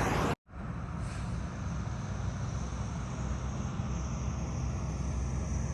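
A steady low rumble with a faint hiss above it, starting after a brief cut-out about a third of a second in.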